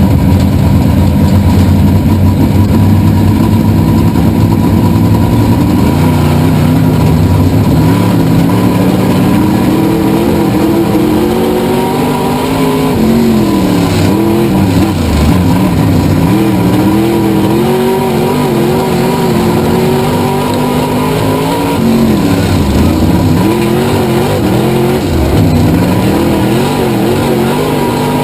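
Race car engine running hard, its pitch steady at first and then rising and falling again and again as the revs change, over a thin steady high tone.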